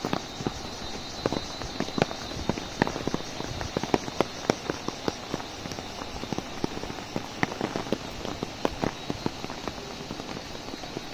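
Heavy rain with large drops tapping irregularly and sharply on an umbrella overhead, over a steady hiss of rainfall.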